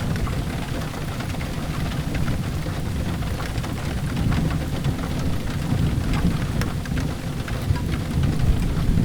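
Steady rain with a low thunder rumble swelling and fading underneath, and scattered sharp crackles from a wood fire in a fireplace.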